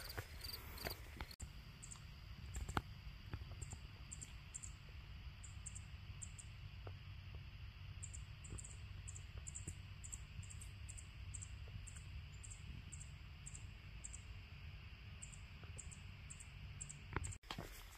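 High, thin chirps repeating irregularly, often in pairs, from a small animal such as an insect or songbird, over a low steady rumble.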